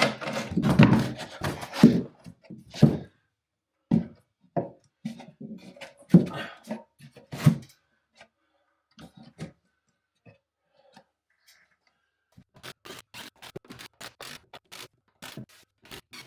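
Irregular knocks and thuds of wooden boxes and boards being handled and fitted, loudest in the first few seconds. Then, after a quiet stretch, a run of fainter, evenly spaced taps near the end.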